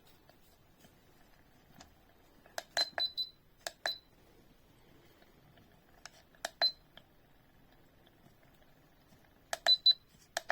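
Gonlink mini mist diffuser's single button being clicked several times, each press answered by one or two short high beeps as the unit steps through its modes.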